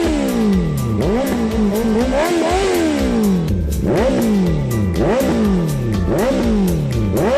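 Honda CBR650R's inline-four engine through an Austin Racing aftermarket exhaust, revved in about eight quick throttle blips. Each rev shoots up sharply and falls back over about a second. Music with a steady beat plays alongside.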